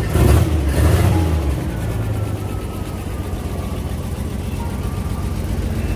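1939 Chevrolet sedan's engine idling with a steady low rumble. A passing vehicle swells and fades in the first second and a half.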